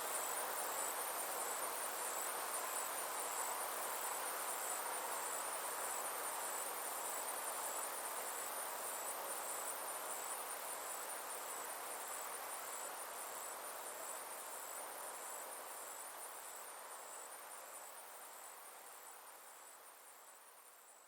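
Summer insects chirring: a steady, rapidly pulsing high trill over a soft hiss, fading out gradually over the last several seconds.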